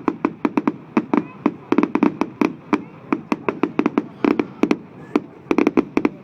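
Fireworks going off in a rapid, irregular barrage of sharp bangs and cracks, several a second.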